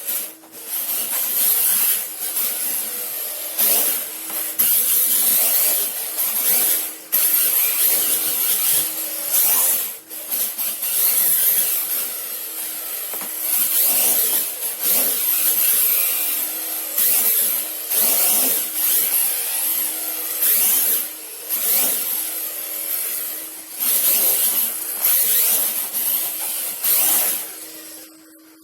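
Radio-controlled drift truck sliding on its hard drift tyres, a hissing scrub that comes in repeated surges of a second or two as it throttles through drifts, over a steady hum.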